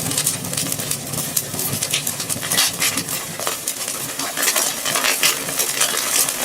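Red-hot metal ball sizzling and crackling in crystal slime: a steady hiss full of quick small pops and clicks.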